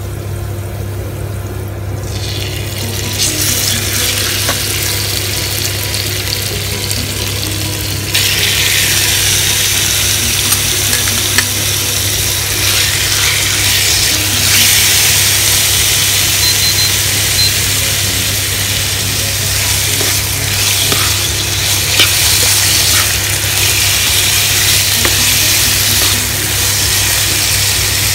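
Marinated chicken pieces sizzling in hot oil and garlic in a nonstick frying pan, turned with a spatula. The sizzle grows about two seconds in and gets much louder at about eight seconds.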